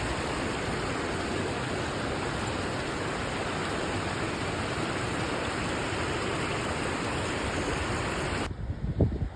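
Steady rush of fast-flowing water, as of a waterfall or mountain stream. It cuts off abruptly about eight and a half seconds in, giving way to a quieter stretch with a few low thumps.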